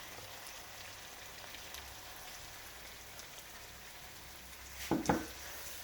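Vegetables sizzling as they fry with meat in a hot pan, a steady hiss. A short, louder knock or clatter about five seconds in.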